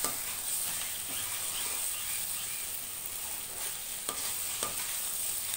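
Cabbage Manchurian balls sizzling in sauce in a kadai while a spoon stirs them, with two short knocks of the spoon on the pan a little after four seconds in.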